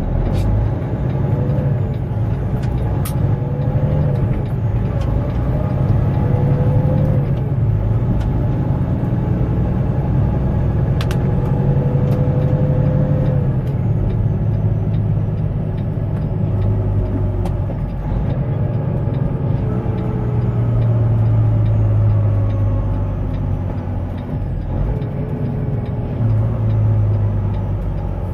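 Semi truck's diesel engine running under way, heard inside the cab, its pitch climbing and then dropping several times.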